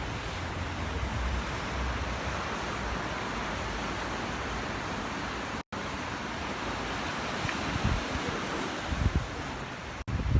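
Ocean surf washing steadily on a beach, with wind gusting on the microphone. The sound cuts out for an instant twice, about halfway through and near the end.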